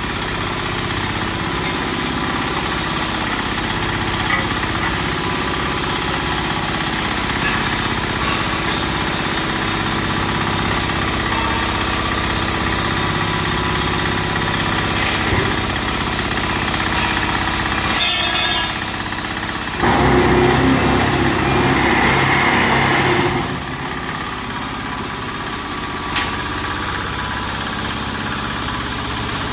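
Diesel engine of a mobile hollow block making machine running steadily. About two-thirds of the way through, a louder, harsher rattling sound comes in for about three and a half seconds, then stops.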